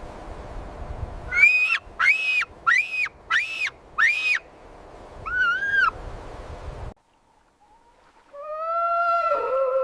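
An animal calling: five short, high, arching calls in a row, then two lower calls with a double rise. After a sudden cut, a long, steady, slightly wavering tone starts near the end.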